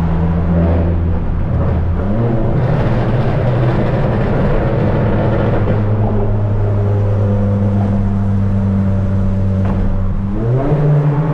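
Tuned turbocharged Volkswagen Polo GTS engine and sport exhaust under way at steady revs, with a short rise in engine pitch about two seconds in. Near the end the revs climb quickly and the exhaust gets louder as the car accelerates.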